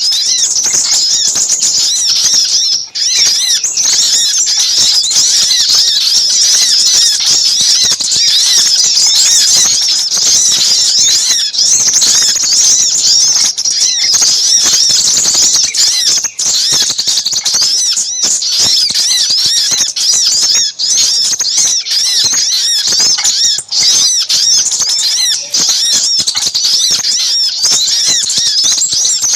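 Bird-lure recording of little spiderhunters (sogok ontong) calling in an agitated, noisy chorus, mixed with crimson sunbird (sepah raja) calls: a dense, unbroken stream of rapid high-pitched chirps.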